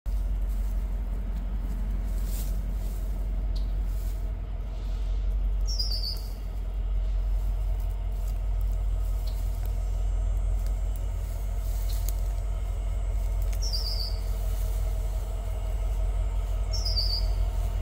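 A small bird gives three short, high, falling chirps, several seconds apart, over a steady low rumble.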